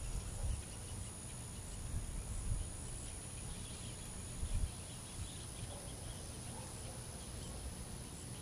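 Outdoor natural ambience: an uneven low rumble of wind on the microphone, with faint bird chirps and a steady high insect drone.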